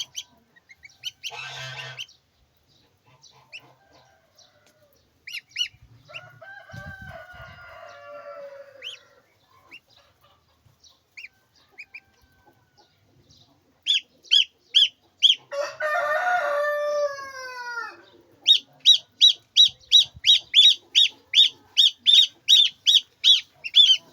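Rooster crowing: a quieter crow about six seconds in and a loud one a little past halfway, each dropping in pitch at its end. Near the end comes a fast, even run of short high-pitched calls, about three a second.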